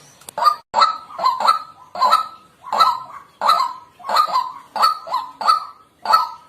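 White-breasted waterhen calling: a continuous run of short, repeated call notes, about two a second.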